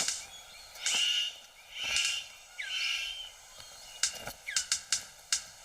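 Male bird of paradise calling in courtship display: three loud, harsh calls about a second apart, then a fast run of sharp clicking notes. Thin whistled chirps of other forest birds sound behind.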